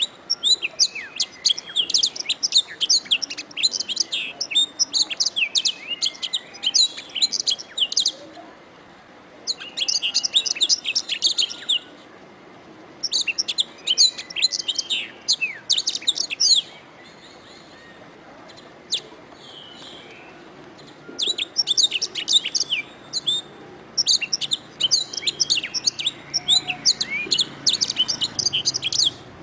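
Domestic canary singing: fast, high-pitched trilling song phrases in bouts of a few seconds, broken by short pauses and one longer lull past the middle.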